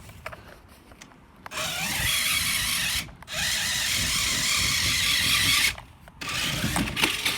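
Toy RC car's small electric motor and gears whirring in three bursts as it is driven up a tube slide, the middle burst the longest.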